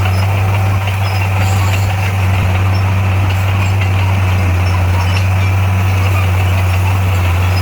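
Heavy diesel engine of earthmoving equipment running steadily with a deep, even note.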